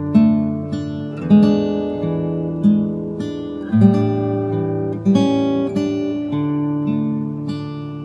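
Slow, relaxing solo acoustic guitar music: plucked notes and chords, a new one struck about every second and left to ring over sustained bass notes.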